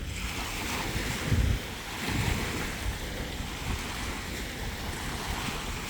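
Lake Superior waves washing on the shore, with wind buffeting the microphone in low rumbling gusts, the strongest about a second and a half in.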